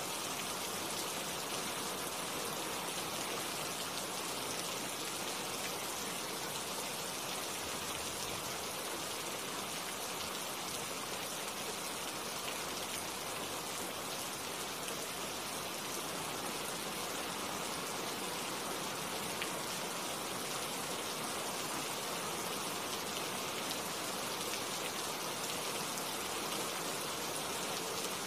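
Steady rain falling on tree leaves: an even, unbroken hiss of raindrops.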